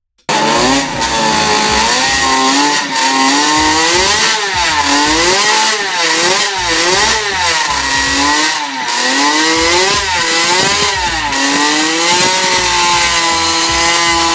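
Suzuki RP68's 50 cc three-cylinder two-stroke racing engine running on a stand, revved up and down in quick repeated blips, then held at a steady pitch near the end.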